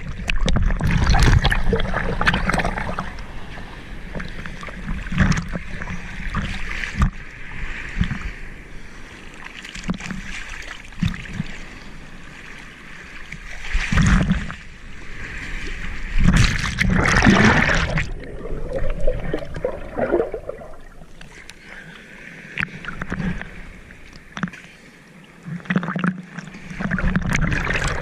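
Sea water sloshing and splashing around an action camera held at the water's surface, with surges of waves washing over it. The loudest surges come about a second in, around fourteen seconds, and between sixteen and eighteen seconds.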